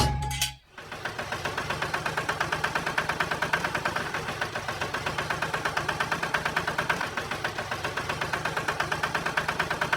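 Mini tractor's small engine running steadily, with a rapid, even chugging pulse of several beats a second, starting under a second in.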